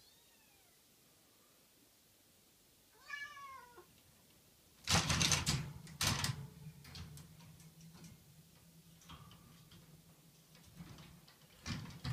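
A kitten mewing, once faintly at the start and once clearly about three seconds in, followed by loud knocks and bumps around five and six seconds, lighter clicks after, and another loud knock near the end.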